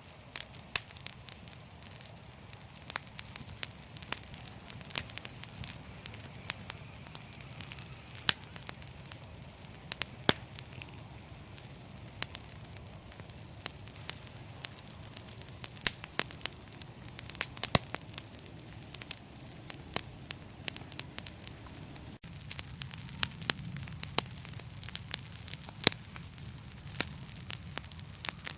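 Fireplace fire crackling: many sharp, irregular pops and snaps over a low, steady rumble of the flames.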